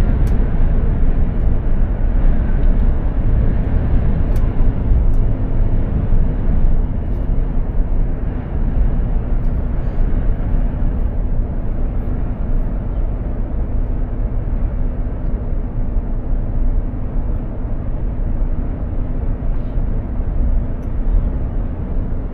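Mercedes-Benz Actros 2763 truck under way at steady speed: a continuous low rumble of engine and road noise with a faint steady hum.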